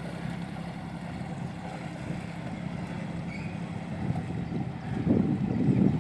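Motor cruiser's engine running with a steady low hum. From about five seconds in, louder gusty noise builds over it, like wind buffeting the microphone.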